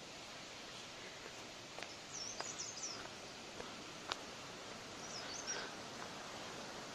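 A small bird chirping in two short runs of high, quick notes, about two seconds in and again near five and a half seconds, over a steady outdoor hiss, with a few faint ticks between.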